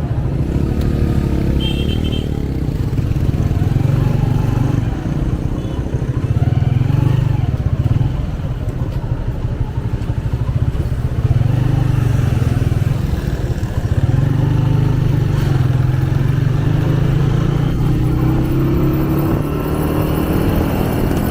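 A 125cc motorcycle engine running during a ride, its note rising and falling with the throttle.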